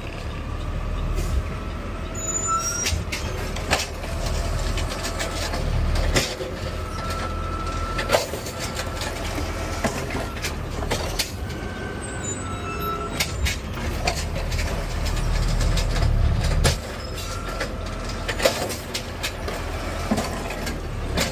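Garbage truck's diesel engine running steadily, with frequent knocks and rattles from the truck.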